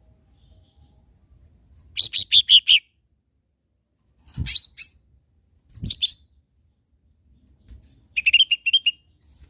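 Cucak ijo mini (a small leafbird) singing in four short phrases of quick, high chirping notes, separated by brief pauses.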